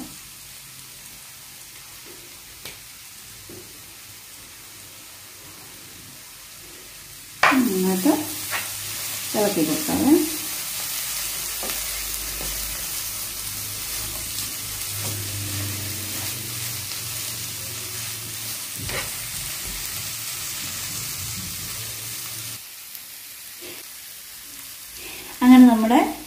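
Clam meat frying and sizzling in a hot nonstick pan while a spatula stirs and scrapes it. The sizzle is low for the first several seconds, jumps up suddenly about seven and a half seconds in, holds steady, and drops back a few seconds before the end.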